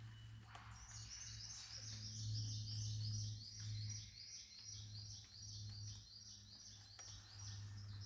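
A bird singing a fast, steady run of repeated high notes, about five a second, starting about a second in. Beneath it runs a low steady hum that swells and fades.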